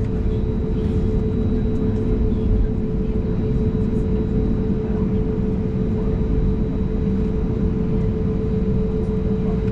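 Cabin sound of an Airbus A320neo's CFM LEAP-1A engines running steadily at low taxi thrust before takeoff: a constant hum with one strong steady tone over a low rumble.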